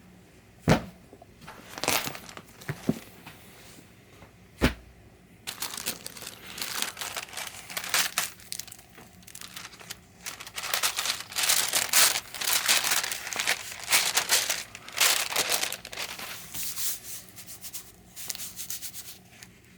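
Sheet of thin bond paper being handled and pressed down, rustling and crinkling continuously with many crisp bursts. Before this, in the first five seconds, there are a few sharp clicks.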